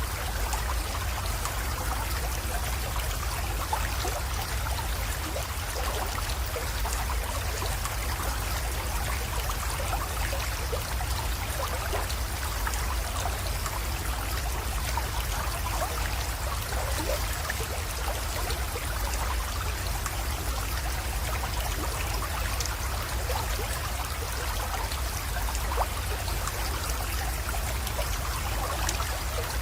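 A small spring-fed creek flowing and trickling steadily, with many small splashes and a steady low rumble underneath.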